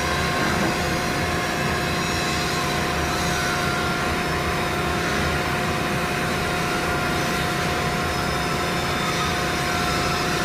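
A steady mechanical drone with a constant low hum, unchanging in level.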